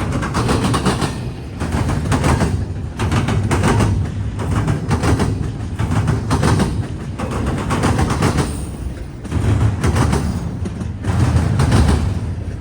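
Freight train wheels pounding over a railroad diamond crossing: repeated clusters of loud clacks, about one group every second or so, as each set of wheels hits the gaps in the crossing, over a steady rolling rumble.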